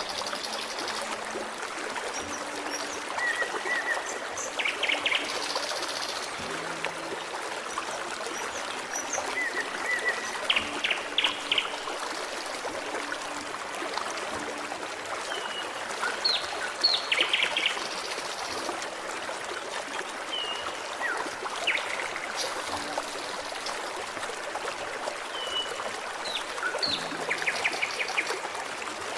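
Forest stream trickling and babbling steadily, with small songbirds chirping over it; a short, quick run of chirps comes back about every six seconds.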